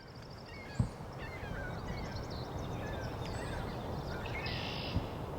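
Many songbirds chirping, whistling and trilling at once over a steady low background rumble that swells in over the first two seconds. A short knock comes about a second in and another near the end.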